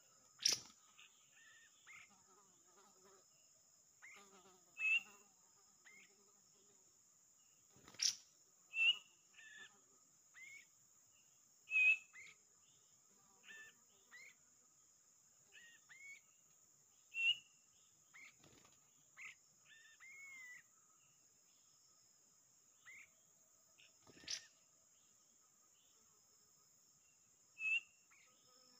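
Songbird chirps: short whistled notes that rise and fall, coming every second or two at irregular spacing, over a steady high insect drone. Three sharp clicks are spread through the chirping.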